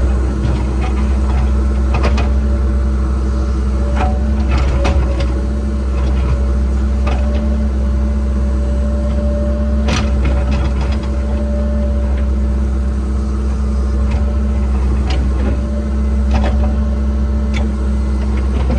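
Cat 306 excavator's diesel engine running steadily under load, with irregular sharp knocks and clanks from the bucket working the dirt and rocks.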